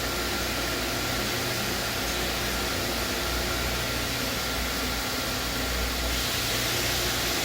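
Star ECAS 20T CNC Swiss lathe running with its support equipment: a steady machine hum and whir with a faint high whine over a low drone.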